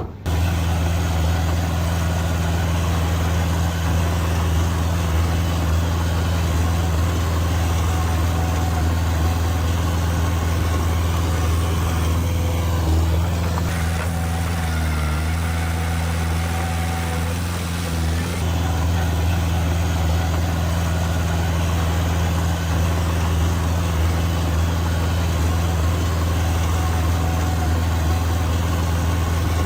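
Heavy earthmoving machine's diesel engine running steadily with a deep, even hum. Its note dips and wavers briefly about halfway through, then settles back.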